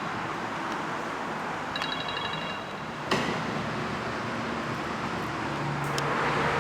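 A rapid, high electronic ringing chime in a burst about a second long, about two seconds in, over steady background noise, with a sharp knock a little past three seconds.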